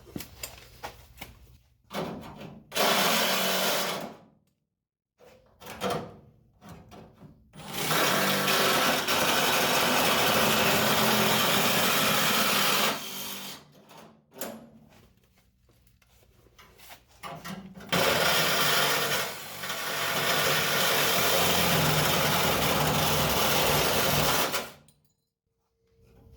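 A handheld power tool running in three bursts: a short one, then two long runs of about five and seven seconds, with quiet pauses between.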